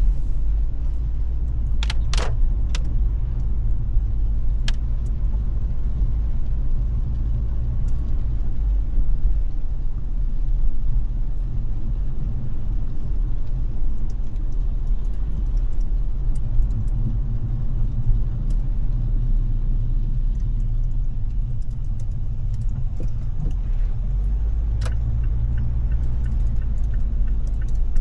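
Car driving, a steady low rumble of engine and road noise, with a few sharp clicks about two seconds in and again near the end.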